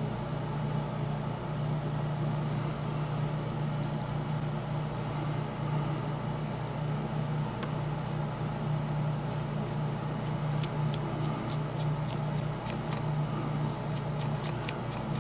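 Steady low mechanical hum, with a scatter of light clicks and taps from small parts being handled on the workbench near the end.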